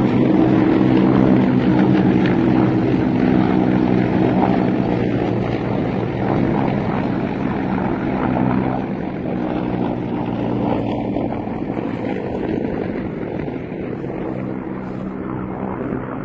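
Military helicopter flying low overhead: a steady, loud rotor and engine hum that gradually fades as it moves away.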